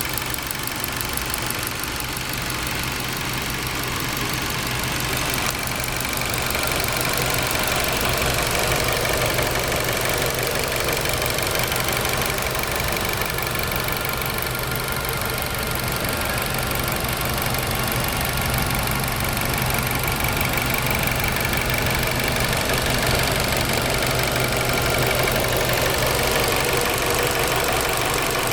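2017 Nissan Versa's 1.6-litre four-cylinder engine idling steadily, with a faint high whine joining about six seconds in.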